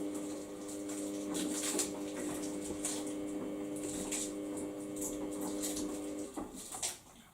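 Samsung washing machine humming steadily at one pitch, with water sloshing and light knocks over it; the hum cuts off about six seconds in.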